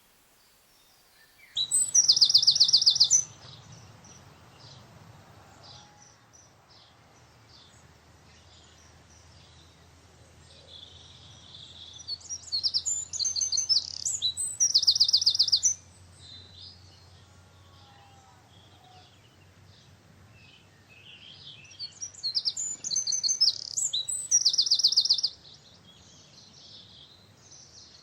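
A songbird singing three loud song phrases about ten seconds apart, each a run of high notes ending in a rapid trill, with faint calls of other birds in between.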